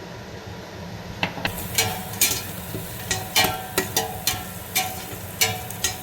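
Spoon stirring a masala paste frying in a pan, clinking against the pan repeatedly from about a second in, over a low sizzle of the oil.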